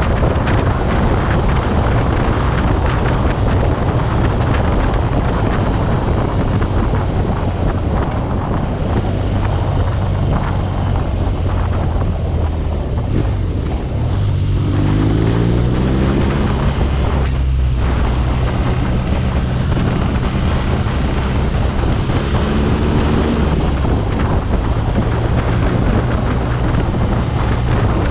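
Heavy wind buffeting on the microphone while riding, with the BMW R nineT Urban G/S's air/oil-cooled boxer-twin engine running underneath; the engine's pitch climbs as it accelerates about halfway through and again briefly later.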